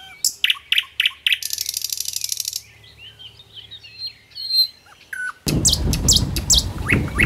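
Small birds chirping and calling: quick chirps, then a fast buzzy trill lasting about a second, then scattered whistles. About three quarters of the way in, a loud low rumbling noise sets in under further chirps.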